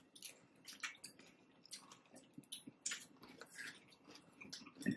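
Faint, irregular chewing and wet mouth sounds of a person eating taco salad, made of scattered small clicks and squishes, with one slightly louder soft thud near the end.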